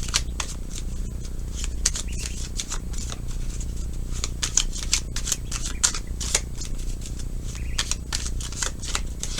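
Tarot cards being shuffled and handled: a run of quick, irregular papery clicks and flicks over a low steady hum.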